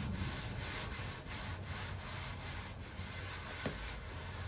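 Repeated rubbing or sanding strokes against the sheet-steel fender being worked for dent repair, with one small click about three and a half seconds in.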